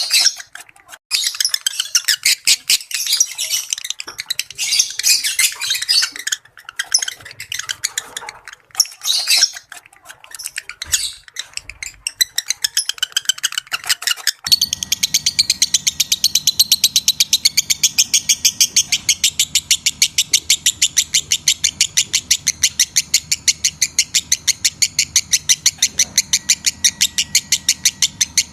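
Lovebirds chattering in shrill, irregular chirps, the kind of breeding-condition sound used as a lure to bring lovebirds into mating readiness. About halfway through it switches abruptly to a fast, even run of repeated chirps, about four a second, over a low steady hum.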